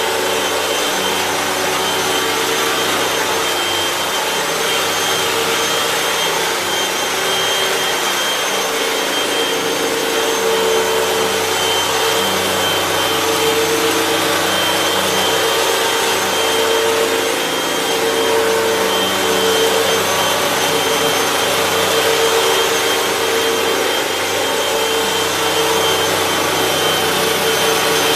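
2015 Hoover WindTunnel 3 Pro Pet bagless upright vacuum cleaner running steadily, its motor giving a steady whine over a constant rush of air, with the lower hum swelling and fading slightly.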